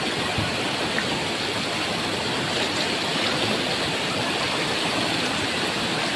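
Rushing floodwater: a steady, unbroken wash of flowing water.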